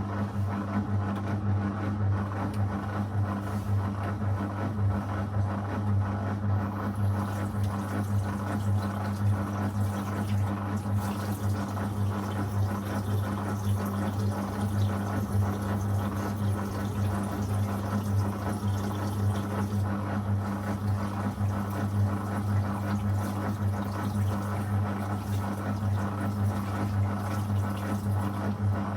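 Zanussi FL984CN washing machine running through a wash program: a steady low hum with water noise over it. The noise brightens slightly about seven seconds in.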